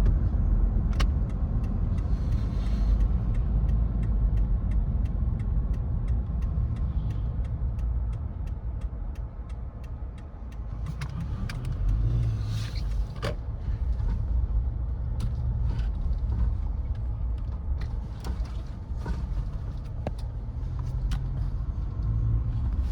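Car being driven, heard from inside the cabin: a steady low road and engine rumble with many small clicks and knocks.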